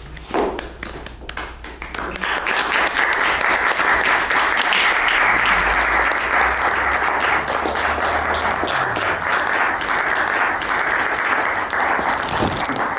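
Audience applauding: a few scattered claps, then steady applause from about two seconds in that tapers off near the end.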